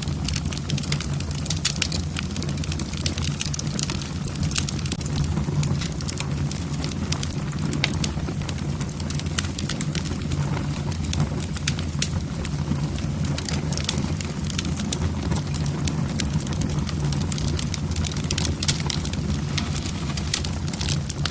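Wood fire in a fireplace, logs crackling with many irregular sharp snaps over a steady low rumble.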